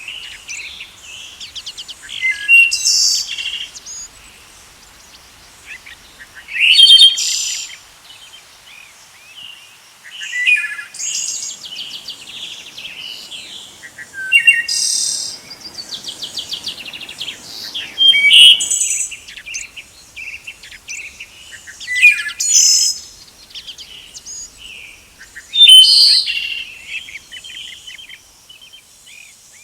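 A songbird singing loud, high, trilled phrases that repeat about every three to four seconds, with softer chirps between them.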